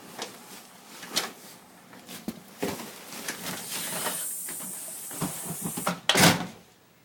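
A run of irregular knocks, scrapes and crunches from someone working at or pushing into deep snow, with a hiss in the middle stretch and a loud knock about six seconds in.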